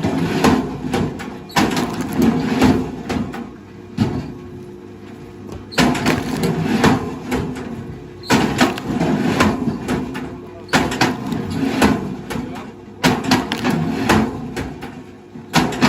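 Wood cracking and splintering in repeated bursts, one about every two and a half seconds, as a machine breaks it up, over a steady engine hum.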